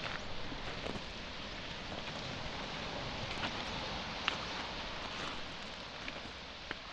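Steady wash of waves on a pebble shore, with a few scattered clicks of pebbles shifting underfoot.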